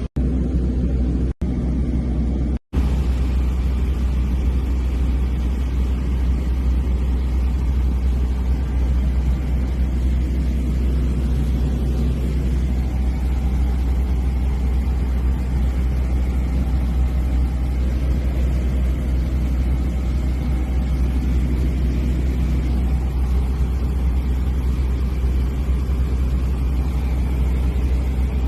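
Small propeller airplane's piston engine heard from inside the cockpit in flight: a steady, loud, low drone with a constant hiss over it. It cuts out twice for a split second in the first three seconds.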